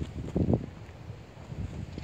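Wind buffeting the microphone: an uneven low rumble, with a stronger gust about half a second in.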